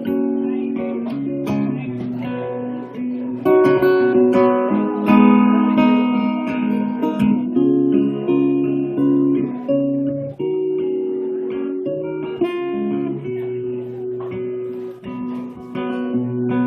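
Instrumental break in a live song: acoustic guitar strumming chords, getting louder about three and a half seconds in.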